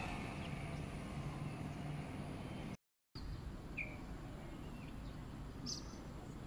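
Faint outdoor background noise with a steady low rumble, cut by a brief dropout to silence about three seconds in. After it come a few short, isolated bird chirps.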